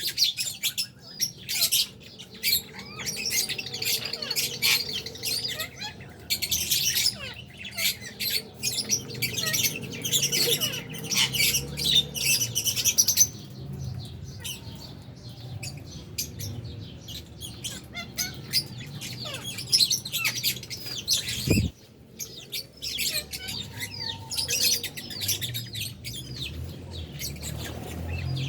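A flock of albino and Fisher's lovebirds chirping and squawking in a dense, continuous chatter, with a brief lull about halfway through.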